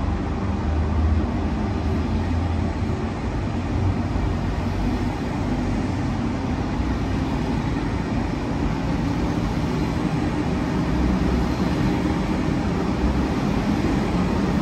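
Thalys high-speed train rolling past under the roof of an underground station: a steady low rumble with a hum, growing louder near the end as the train's end power car approaches.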